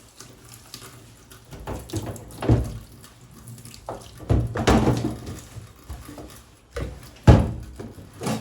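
Water from a kitchen tap splashing in uneven surges as a food container is washed in the sink, with one sharp knock about seven seconds in.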